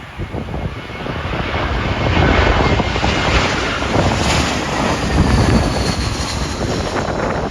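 Jet airliner on final approach passing low overhead, its engine noise swelling to a peak about four seconds in and then easing, with a faint whine falling in pitch. Wind buffets the microphone throughout.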